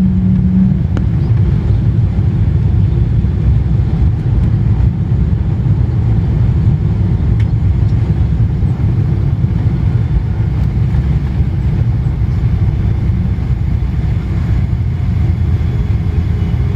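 Boeing 777 landing: a loud, steady deep rumble with little change, and a faint hum joining near the end.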